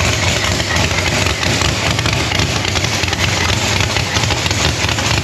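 Supercharged drag-car V8 with a Procharger, idling loudly and steadily through open zoomie headers.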